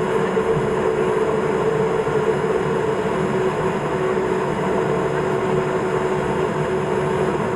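Steady drone of a Cessna P210 Silver Eagle's Rolls-Royce turboprop engine and propeller heard inside the cabin, a constant hum with a fixed mid-pitched tone and no change in power.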